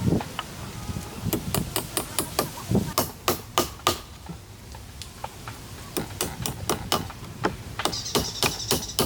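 Hammering: quick runs of sharp strikes, about four or five a second, in bursts with short pauses between.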